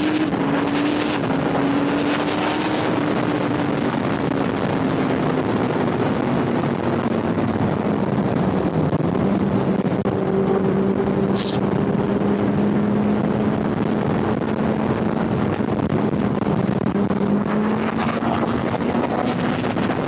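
Kawasaki Ninja ZX-10R's inline-four engine running steadily under way, its pitch easing down over the first half and rising slightly near the end, over a steady rush of wind and road noise.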